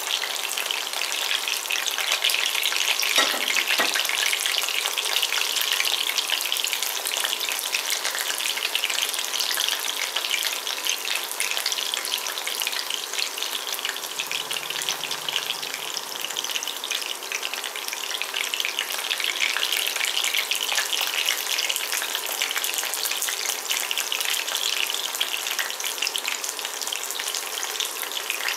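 Breaded chicken nuggets shallow-frying in vegetable oil in a ceramic pan, a steady crackling sizzle. Two light knocks sound about three seconds in.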